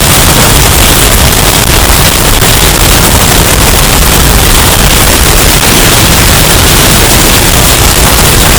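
Hurricane storm-wind sound effect, bass-boosted and pushed to near full loudness: a steady, dense wall of distorted wind noise with heavy low bass and no let-up.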